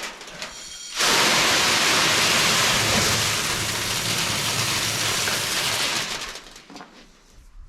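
Grain pouring out of a silo outlet in a rushing stream. It starts abruptly after a short rattle, runs for about five seconds, then dies away.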